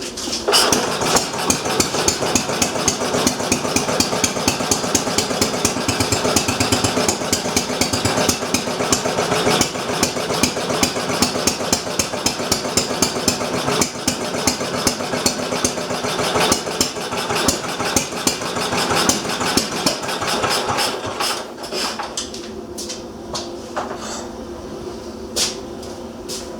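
Briggs & Stratton Model Q single-cylinder engine catching and running fast with a rapid, even firing beat. About 21 seconds in it slows to a sparser, uneven firing. The owner judges it to be running rich.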